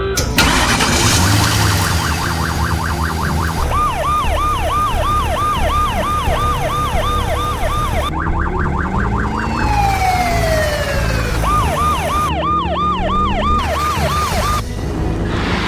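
Cartoon siren sound effect: a fast wailing siren that dips and rises about three times a second. Around the middle it breaks into a faster warble and a downward-sliding tone, then the wail returns.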